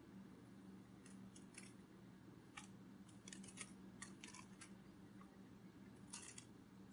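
Near silence: a faint steady low hum with scattered soft clicks, some coming in quick little clusters.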